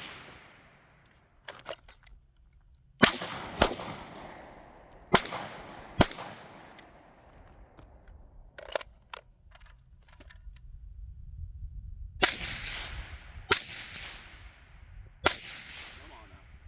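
Eight gunshots fired mostly in pairs, each sharp crack trailing off in a long echo.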